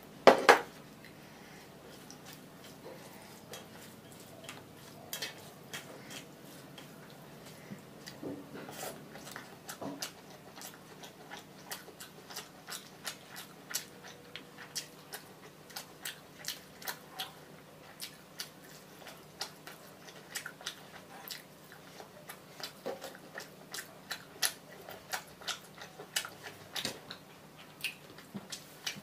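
Close-up eating sounds: chewing and biting fish and rice by hand, with many short wet mouth clicks and smacks. A single loud sharp clack right at the start.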